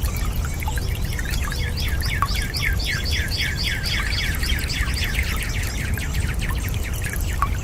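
A bird calling in a rapid series of short, falling chirps, about eight a second, over a steady low rumble.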